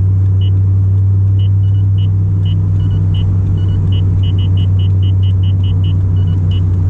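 Steady in-cabin drone of a C5 Corvette's 5.7-litre V8 and road noise at an even speed, with short high beeps dotted irregularly through it.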